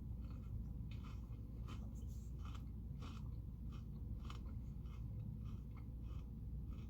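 Celery stick with hummus being chewed close to the microphone: crisp crunching in an even rhythm, a little under two crunches a second, over a low steady hum.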